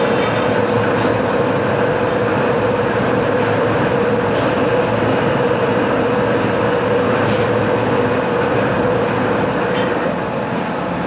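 Metalworking machine tool running steadily, a constant noise with a steady hum and a few faint ticks, cutting off abruptly at the end.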